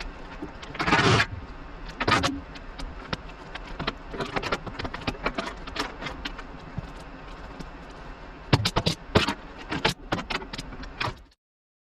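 Metal clinks, knocks and rattles of hand tools working bolts and panels on a classic Mini's front end, with a louder scraping rush about a second in and another shortly after. The sound cuts off suddenly near the end.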